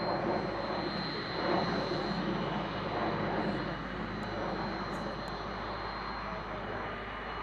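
Aircraft jet engine noise, steady and continuous, with a thin high whine over it.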